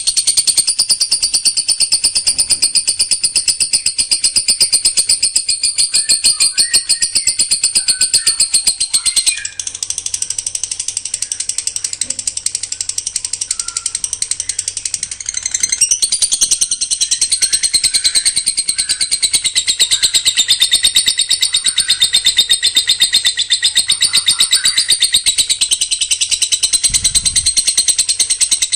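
Songbird's rapid-fire 'tembakan' song: a dense, fast-pulsing trill of high notes with no pauses, changing its pattern twice.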